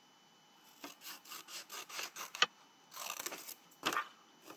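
Scissors cutting paper along its drawn diagonal lines in a run of quick crisp snips, about four a second, then a denser cluster and one sharper snip near the end.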